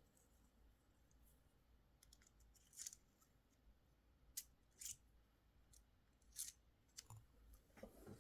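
Faint, scattered clicks and scrapes of small plastic parts: toy missiles being handled and pushed into a Hailfire Droid toy's launcher, a few light ticks spread out with a short cluster near the end.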